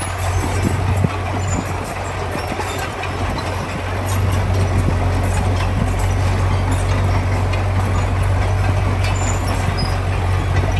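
Diesel engine of heavy earthmoving machinery running steadily, with clanking and rattling over it; it grows louder about four seconds in.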